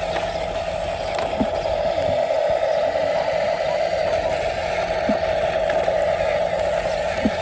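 Electric motors and plastic gearboxes of a Huina 1573 radio-controlled dump truck running with a steady whine, with a few faint ticks.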